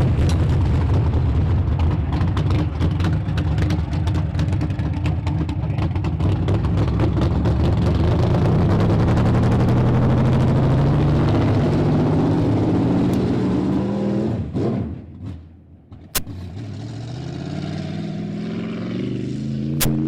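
Race car engine running hard and accelerating, its pitch climbing steadily. About fifteen seconds in the sound drops away sharply for a moment, there is a sharp click, and then the engine picks up and climbs again.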